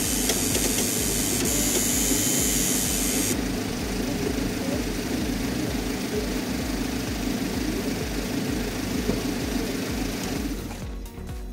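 Peugeot 206 CC engine idling steadily while running with the AL4 automatic gearbox drained, so that the torque converter pumps out its remaining fluid. A hiss sits over the first three seconds, and the engine sound drops away near the end.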